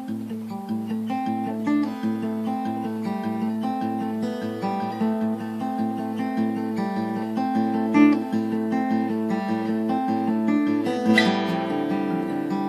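Tanglewood acoustic guitar played fingerstyle: a steady, repeating low bass note under picked melody notes, with a brighter strummed chord about eleven seconds in.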